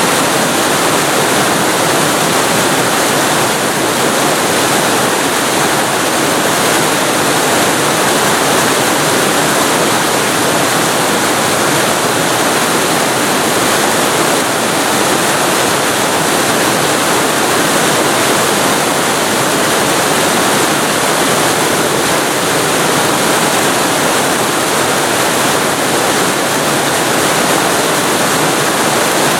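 Waterfall recorded very close to the falling water: a loud, steady rush of water, even throughout.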